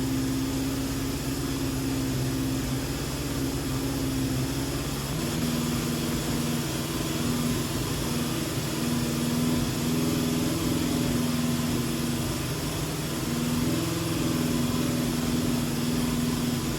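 1972 Honda CB750's air-cooled inline-four engine idling steadily on its first run after a rebuild. The idle speed shifts about five seconds in.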